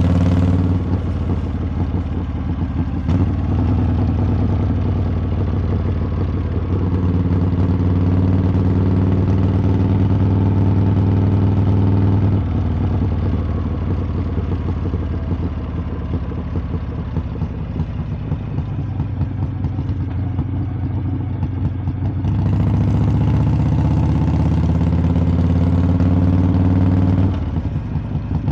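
Harley-Davidson V-twin motorcycle exhaust heard from the rider's seat while riding. It runs strongly on the throttle, eases off to a lower, quieter note for about ten seconds in the middle, then pulls again with rising pitch before backing off near the end.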